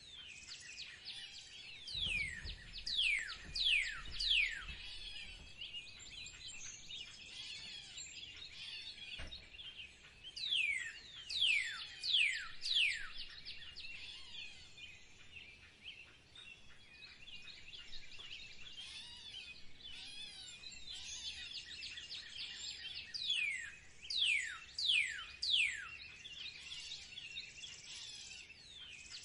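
Outdoor birdsong: a steady chorus of small birds chirping. Three times a louder song of four or five quick, steeply falling whistled notes rises above the chorus.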